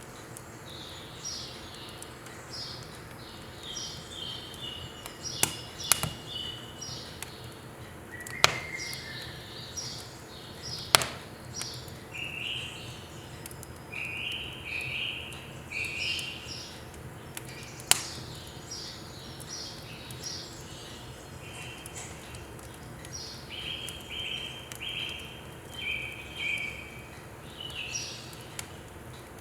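Firewood burning in a wood stove, with a few sharp, loud pops and snaps spaced several seconds apart. Small birds chirp throughout in quick runs of short repeated notes.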